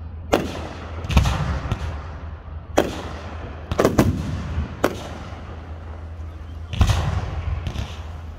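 Aerial fireworks: a series of sharp booms from shells launching and bursting, about nine in eight seconds, some trailing off after the bang. A steady low hum runs underneath.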